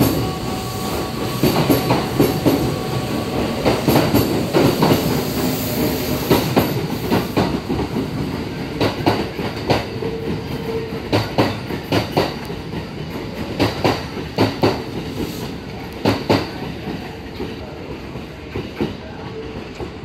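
Kintetsu electric trains pulling out of the station: wheels clacking over rail joints and pointwork in a long run of clicks, with a steady whine in the first few seconds. The clatter thins out and fades as the trains move away.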